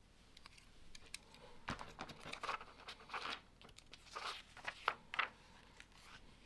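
Lego pieces and their plastic parts bags being handled: crinkly rustling and small plastic clicks, busiest in the middle few seconds.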